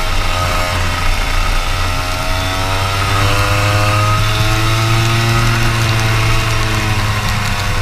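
Racing kart engine running loudly, its pitch rising and then falling slowly over several seconds.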